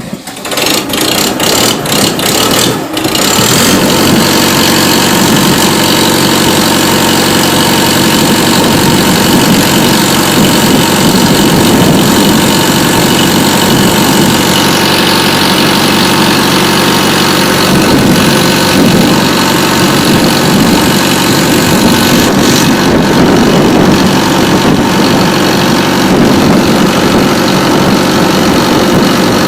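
Homemade mini tractor's engine coming up over the first three seconds with a few sharp knocks, then running steadily and loud.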